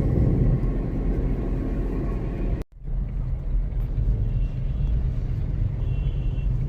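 Steady low rumble of a car driving along a road, with engine and tyre noise. It drops out abruptly for a moment about two and a half seconds in, then carries on.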